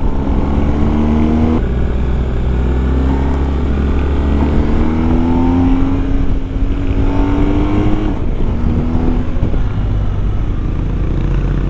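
BMW R 1250 GS boxer-twin motorcycle engine pulling as the bike rides, its pitch rising slowly with two brief breaks in the pull, about one and a half seconds in and again near eight seconds. Steady wind rush on the onboard microphone runs underneath.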